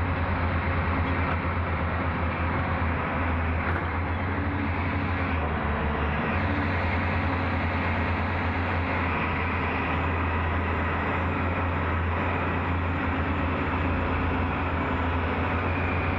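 Tata Hitachi Zaxis 470 excavator's diesel engine running steadily, a constant deep hum with even mechanical noise above it.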